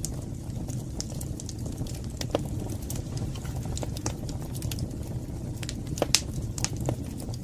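Wood fire burning in a fireplace: a steady low rumble of flame with scattered sharp crackles and pops, the loudest about six seconds in.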